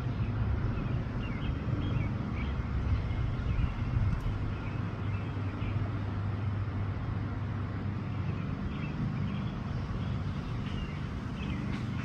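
Wind buffeting the microphone as a steady, uneven low rumble, with faint high chirps above it.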